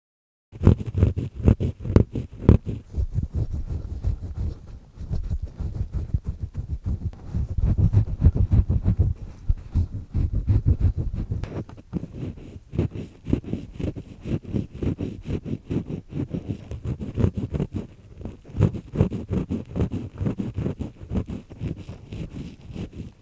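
Earpick scraping inside an ear canal, close to the microphone: a dense run of crunchy, grinding scratches in quick, uneven strokes. It starts about half a second in.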